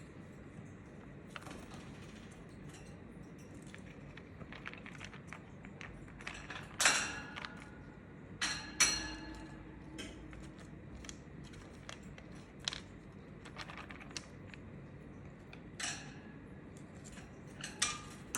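Budgerigars giving a few short chirps, the loudest about seven and nine seconds in, among scattered small clicks and taps.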